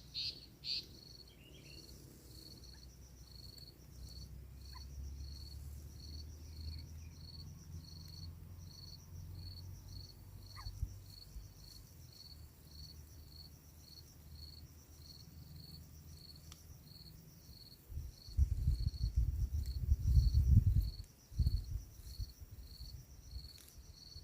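An insect, likely a cricket, chirping in a steady, even rhythm of short high pulses. Late on, a few seconds of loud low rumbling cover it.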